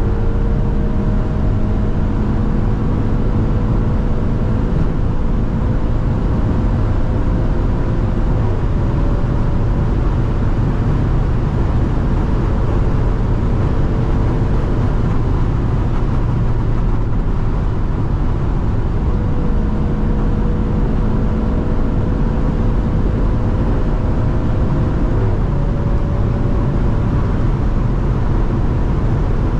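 Maserati Grecale Trofeo's twin-turbo V6 pulling hard at high speed under heavy, steady road and wind noise. The engine note climbs slowly and drops sharply twice, about eight seconds in and again near 25 seconds.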